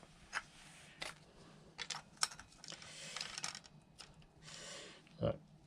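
Faint, irregular small clicks and taps of metal parts being handled while a scooter's clutch assembly is slid on and lined up on its splines. There are two short spells of soft rustling.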